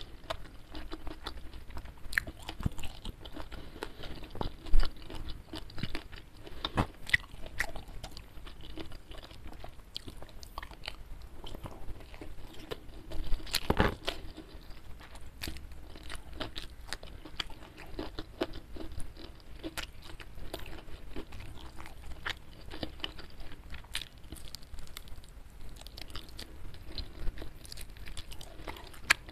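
Close-up ASMR eating: steady chewing and crunching of food with many small wet mouth clicks. A louder crunchy stretch comes about halfway through.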